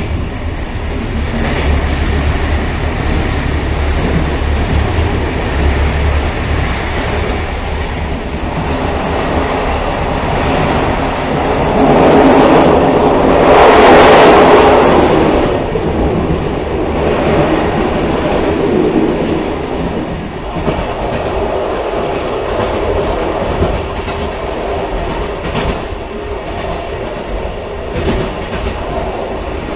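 Railcar running along the track: a continuous rumble with irregular clicks of the wheels over the rails, swelling louder for a few seconds around the middle.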